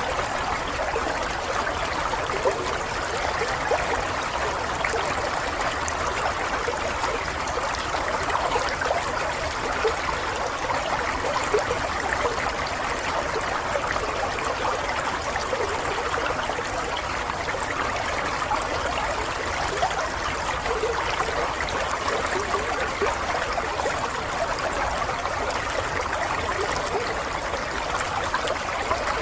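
Water running and trickling steadily, like a small stream flowing over stones, with fine bubbling detail and no pauses.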